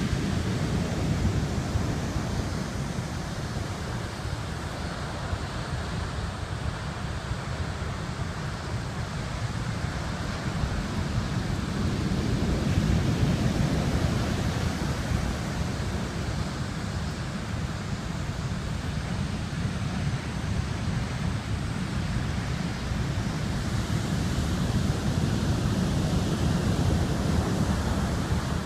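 Typhoon wind buffeting the microphone over heavy surf: a dense, steady rush with a strong low rumble that swells and eases in gusts.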